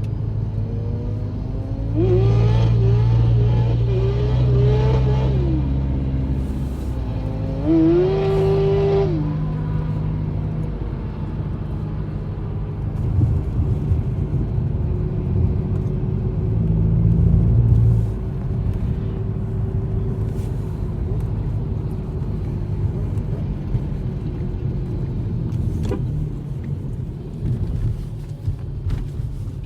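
Honda CBR600 inline-four motorcycle engine in a Bombardier Baja 650 quad, revved high twice, first about two seconds in for a few seconds and again about eight seconds in. After that it runs at lower, steadier revs with a rumble underneath.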